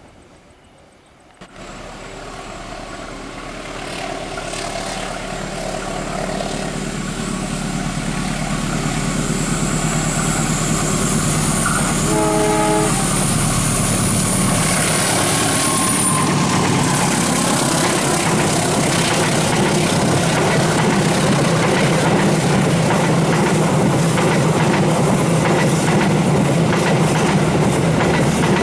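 Progo passenger train approaching and passing close by. A growing rumble carries a high whine, a short horn blast sounds about twelve seconds in, then the steady rush and clatter of the passing carriages follows.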